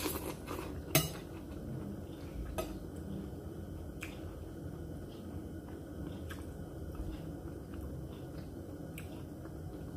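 Close-up chewing of a mouthful of boiled leafy greens and rice, moist and squishy, with a few sharp clicks, the loudest about a second in.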